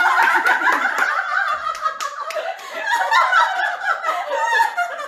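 Several women laughing hard together, with a few hand claps.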